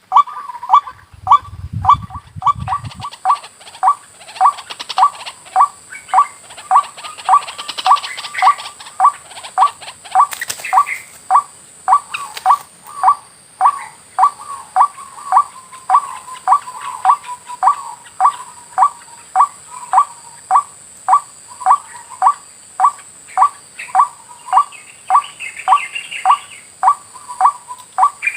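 White-breasted waterhen (ruak) call repeated evenly and without pause, about two calls a second: the lure call used to trap waterhens. A faint steady high whine runs behind it, and there is a low rumble in the first three seconds.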